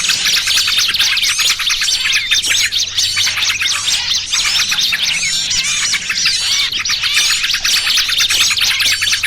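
Dense, overlapping chorus of many small birds chirping and chattering rapidly without a break: a bird-lure mix of agitated yellow-vented bulbul (trucukan) chatter and the alarm and distress calls of small songbirds, meant to draw wild birds in.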